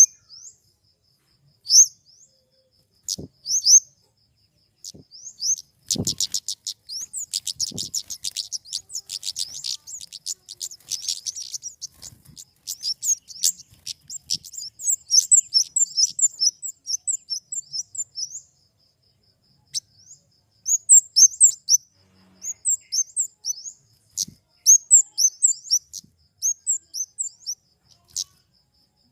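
Flowerpecker (kemade) calling: sharp, very high-pitched chirps, with a dense, rapid ticking run lasting several seconds about a fifth of the way in, then quick strings of chirps. A few soft low thumps fall in the first third.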